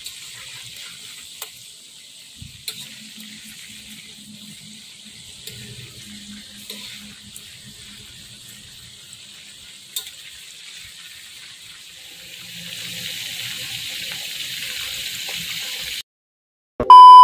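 Chicken pieces deep-frying in hot oil in a wok: a steady sizzle with scattered pops and crackles, growing louder about twelve seconds in. The sizzle cuts off near the end and a loud, steady electronic beep follows.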